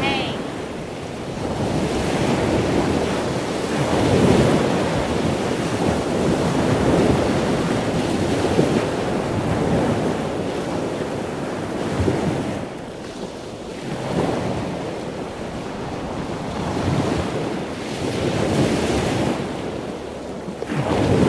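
Ocean surf: a steady rush of breaking waves, swelling and ebbing every few seconds.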